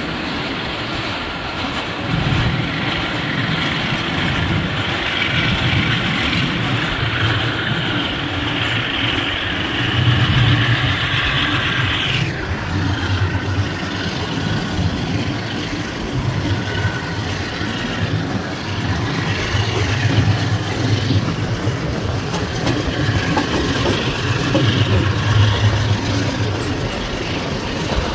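Pakistan Railways passenger train running on the track, heard from an open coach door or window: a steady rumble of wheels on rail with rushing air. A hiss in the upper range drops away suddenly about twelve seconds in.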